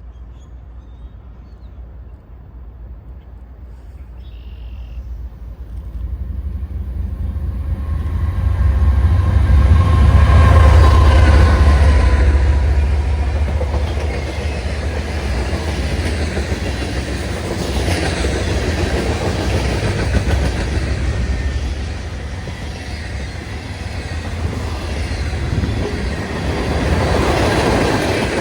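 Diesel-hauled freight train passing. A deep locomotive rumble builds and is loudest about ten seconds in, then the freight cars roll past steadily, with clickety-clack from the wheels over rail joints.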